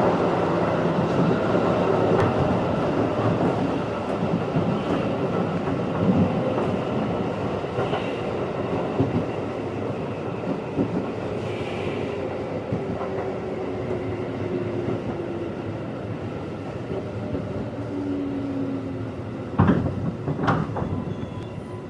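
211 series electric train heard from inside the passenger car, running on the rails with a steady rumble and faint motor whine, and a few clacks from the wheels over rail joints. The tones fall slowly in pitch and the sound grows gradually quieter as the train slows.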